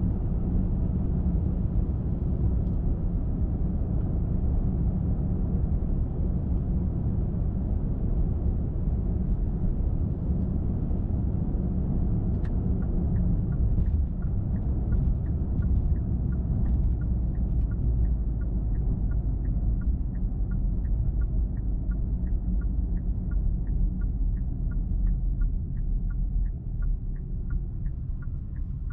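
A car driving on a highway, with a steady low rumble of engine and tyres. About halfway through, a light regular ticking of about two a second joins in. The rumble eases a little near the end.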